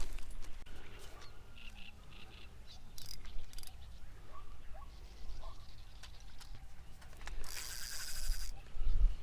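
Birds chirping faintly over a low, steady wind rumble, with a brief rustling noise about three-quarters of the way through.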